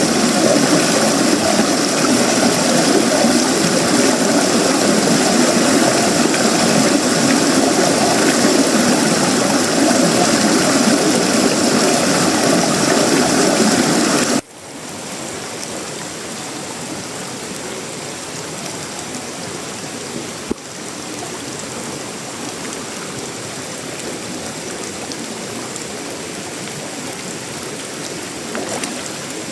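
Heavy tropical rain pouring steadily, dense and loud. About halfway through it cuts off abruptly to lighter, quieter rain, with one small click a few seconds later.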